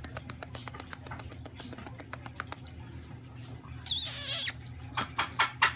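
Pet parrot knocking, tapping its beak in a rapid train of sharp clicks, then giving one short shrill squawk about four seconds in, followed by another quick burst of louder taps near the end.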